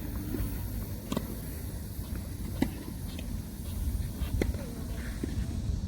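Tennis ball being struck and bouncing on a court, sharp pops every second or two, over a low steady rumble.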